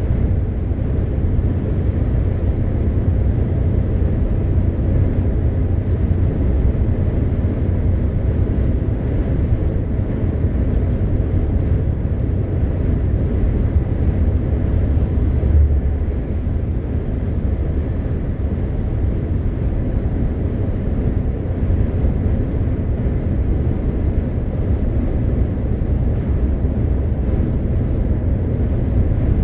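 MAN TGX 520 truck on the move: its straight-six diesel engine and the road noise make a steady low rumble, with a brief deeper swell about halfway.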